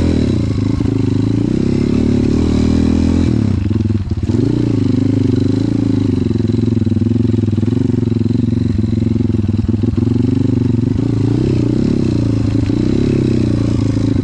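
Trail motorcycle engine running steadily, its pitch wavering up and down, with a brief drop in revs about four seconds in.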